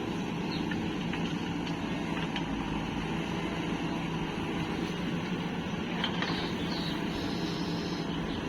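Diesel engine of heavy machinery running steadily at a constant pitch.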